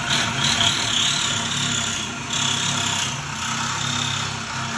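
A power tool running steadily under load, with a high whine that wavers in pitch as it works.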